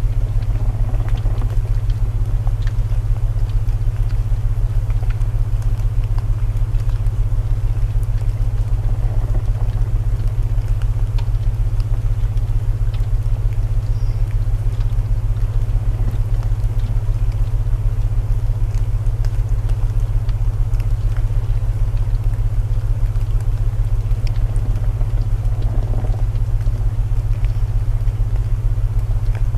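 Steady low binaural tones held throughout, layered over the hiss of rain and the scattered crackle of burning wood in a fireplace.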